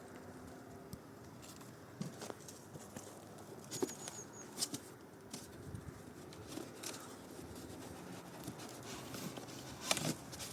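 Faint scattered knocks and rustles, with a few louder clicks about two seconds in, around four seconds and near the end.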